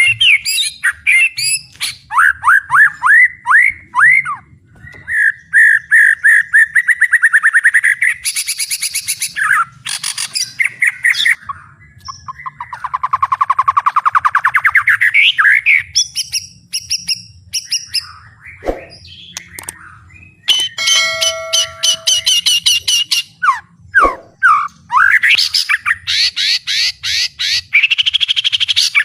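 White-rumped shama singing loudly, a long varied song of fast repeated notes, trills and sweeping rising and falling whistles, broken by short pauses between phrases. The song is full of mimicked calls ("isian").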